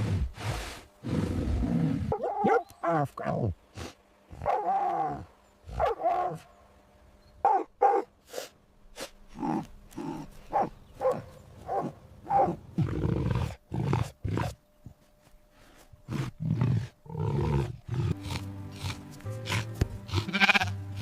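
A run of recorded animal calls played one after another, short cries mixed with longer, drawn-out roaring calls. A music bed comes in near the end.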